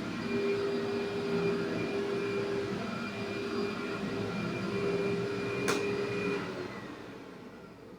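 Vacuum cleaner motor running with a steady whine, then a click near the end of the running and the motor winds down, its whine falling in pitch as it switches off.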